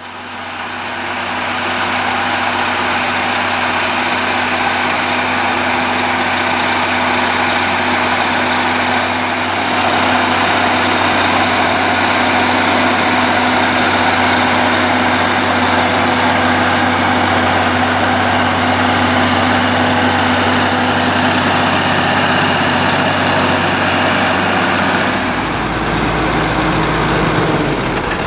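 Fiatagri 180-90 Turbo DT tractor's six-cylinder turbodiesel engine running steadily while pulling a three-furrow mounted plough. Near the end the engine note changes and a deeper rumble comes in.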